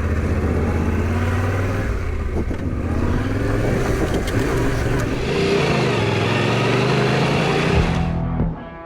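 Motorcycle engine running under way, its pitch shifting up and down with the throttle, fading out near the end.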